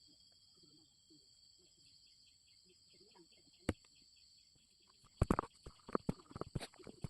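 Crickets chirping steadily in the background. A single sharp click a little past halfway, then from about five seconds in a quick run of clicks and knocks from kitchen handling while momos are being made.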